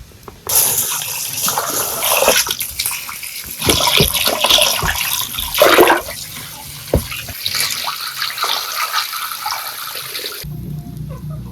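Water running or being poured, with uneven splashing. It starts about half a second in and stops abruptly near the end.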